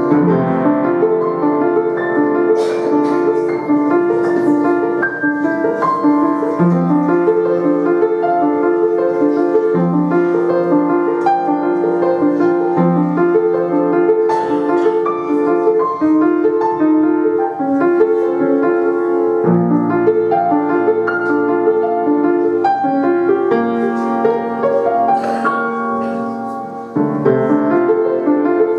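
Solo piano playing a continuous piece of fast repeated note figures, with a short dip in loudness about 27 seconds in before it carries on.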